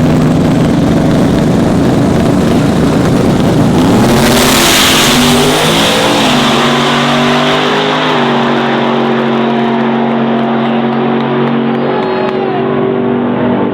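Drag-racing truck engines running loud, with a hard acceleration surge about four seconds in, then the engine notes rising in steps and holding steady.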